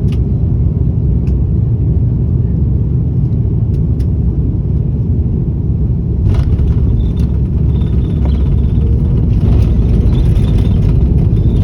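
Steady low rumble of an airliner heard inside the cabin, with a few light clicks and rattles. About six seconds in, a brighter hiss joins the rumble.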